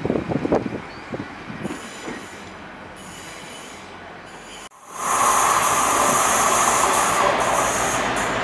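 Class 800 train passing, its wheels clattering over the rails and fading away. After a sudden break, a much louder steady rush of wheel-on-rail noise with a high ring from an approaching diesel locomotive.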